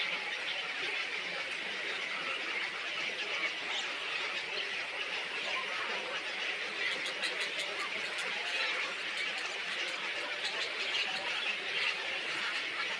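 A dense, continuous chorus of many small birds chattering and squeaking together, with no single call standing out.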